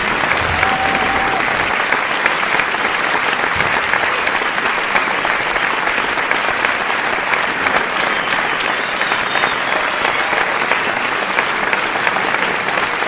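Crowd applause: many people clapping at once in a dense, steady patter that neither swells nor fades.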